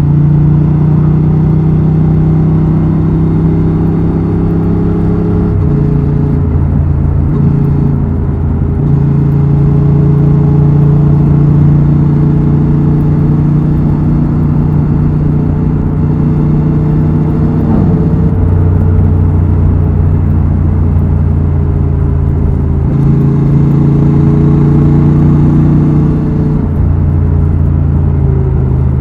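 Honda Transalp XL750's 755 cc parallel-twin engine and exhaust running under way. The engine note holds steady for stretches and steps up or down in pitch several times.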